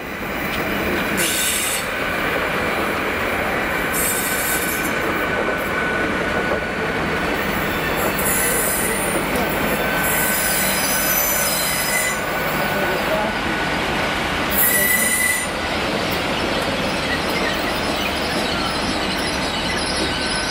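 Great Western Railway Intercity Express Train running out along a curve: a steady rumble of wheels on rail with a thin high squeal and bursts of wheel squeal that come and go, loudest about fifteen seconds in.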